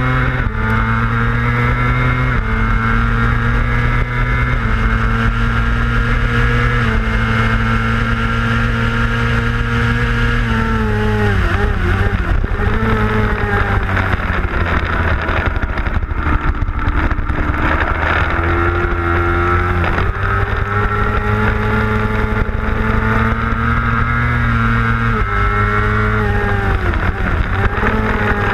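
A 600 cc racing motorcycle's engine heard from onboard at high revs, with wind rush. It shifts up through the gears, the pitch stepping down at each shift. About a third of the way in it drops away through downshifts for a corner, then pulls hard again with further upshifts before slowing once more near the end.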